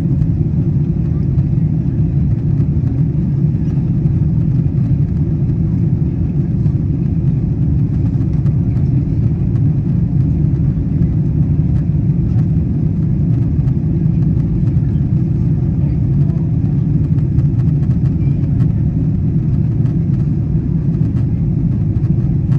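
Steady low rumble of engine and airflow noise in the economy cabin of a Boeing 777-200ER during descent.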